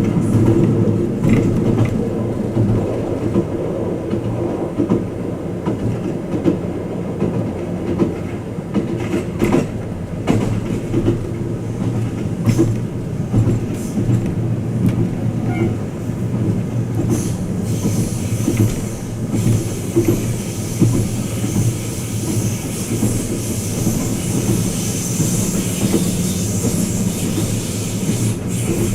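Running noise of the Twilight Express Mizukaze luxury sleeper train heard inside a passenger compartment: a steady rumble with scattered clicks of the wheels over the rails. A high hiss joins in about seventeen seconds in.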